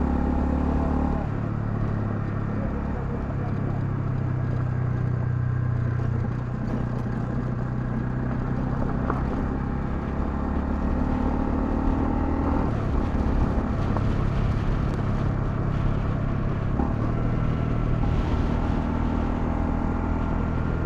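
Honda CL250's single-cylinder engine running while riding, its note stepping abruptly up or down a few times, with wind rushing past.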